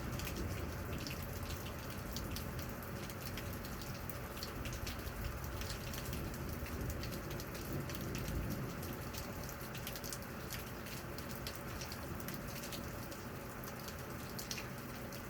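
Steady rain during a thunderstorm, with many separate drops ticking sharply on a nearby surface.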